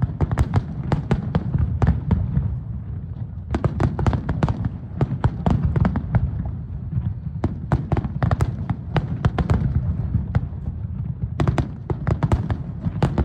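Aerial fireworks finale: a rapid, dense barrage of sharp bangs and crackles over a continuous deep rumble of overlapping booms, with clusters of sharper cracks around four, eight and twelve seconds in.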